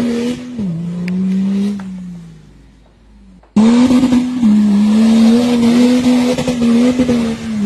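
Off-road 4x4 engine held at high revs with its wheels spinning. The pitch sags and fades away over the next two seconds. After an abrupt cut, another off-roader's engine revs hard and steady as it climbs a muddy slope.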